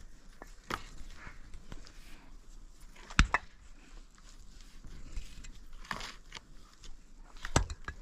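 A few scattered sharp knocks over faint background noise, the loudest a quick double knock about three seconds in and another single knock near the end.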